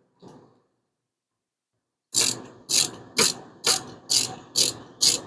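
Hand ratchet wrench clicking in steady back-swings, about two strokes a second, starting about two seconds in, while tightening rocker shaft bolts a little at a time.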